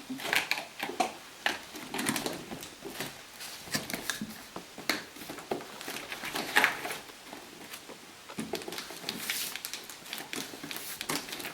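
Cardboard pieces being handled and pressed together while being glued: irregular rustling and scraping with scattered light knocks and clicks.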